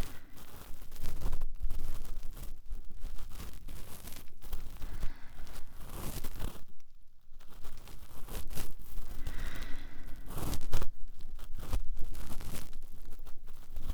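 Close-miked cotton swab rubbing and scraping in the ear, with fireplace crackles in the background. There is a short lull about halfway through.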